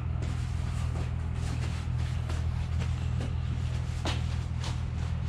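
A steady low hum of running shop equipment, with scattered light clicks and scrapes from parts being handled; the sharpest comes about four seconds in.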